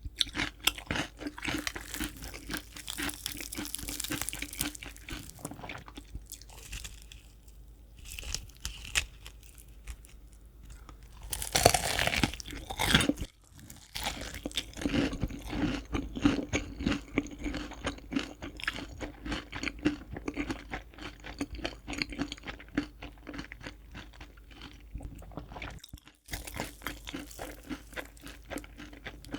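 Crispy fried chicken being eaten close to the microphone: crunching bites and chewing over and over, with a louder burst of crunching about twelve seconds in.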